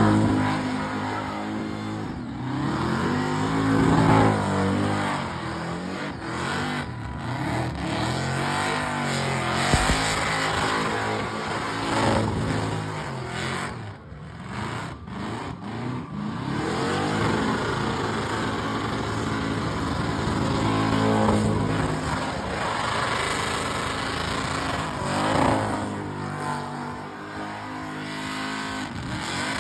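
A burnout car's engine revving hard and repeatedly, its pitch climbing and falling over and over, with a brief drop in revs about halfway through.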